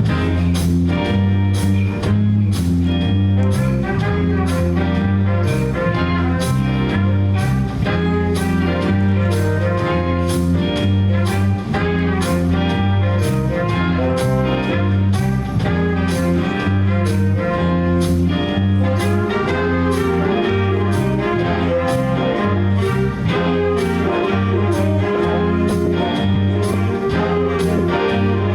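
High school jazz band of saxophones, trombones and trumpets playing a jazz number over a steady beat.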